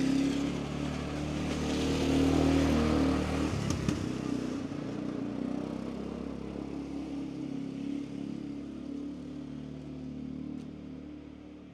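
A motor vehicle's engine running, loudest a couple of seconds in and then slowly fading away.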